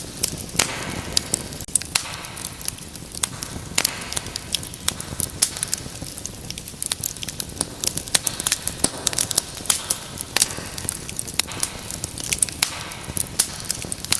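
Wood fire in a fireplace burning, with frequent sharp, irregular crackles and pops over a steady low rumble of the flames.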